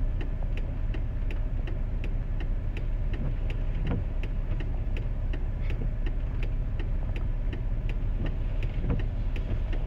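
Inside the cab of a 2001 GMC Sierra pickup on the move in the rain: a steady low rumble of road and engine, with a regular light ticking about twice a second and a couple of duller knocks.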